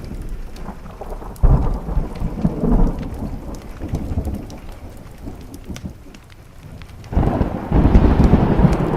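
Thunder rumbling over steady rain. One deep peal breaks in suddenly about a second and a half in and fades, and a louder one starts about seven seconds in and is still going at the end.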